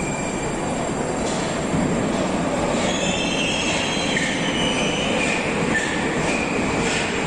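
Metro train running into the station with a steady rumble, its wheels and brakes squealing in high, shifting tones from about three seconds in.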